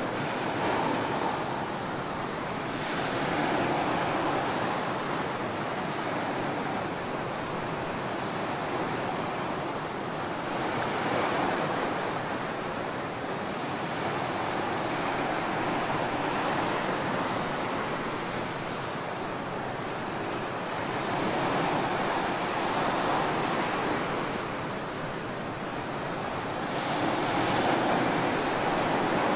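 Ocean waves breaking and washing on a tropical beach: a continuous rush of surf that swells and eases every several seconds as each wave comes in.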